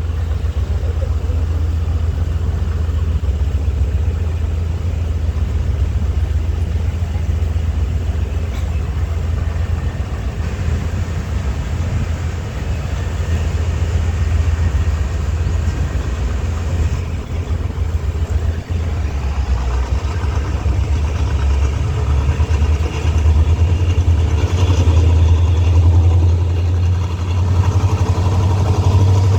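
Diesel locomotive engine running with a steady low drone as the train pulls away, heard from the coach just behind it; it grows a little louder and fuller over the last third.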